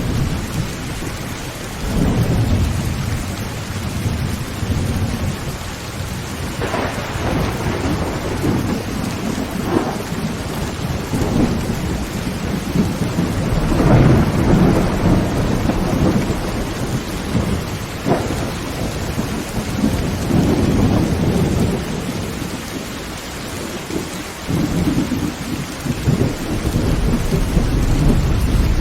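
Heavy rain drumming on a tin roof, with thunder rumbling in repeated swells and a few sharp cracks.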